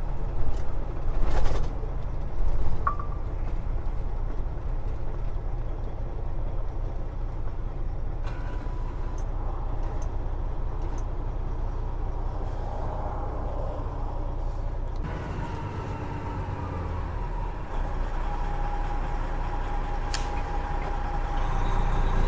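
Peterbilt 389 glider's diesel engine running steadily at low speed, heard from inside the cab, with a few sharp knocks in the first few seconds and a faint steady whine in the second half.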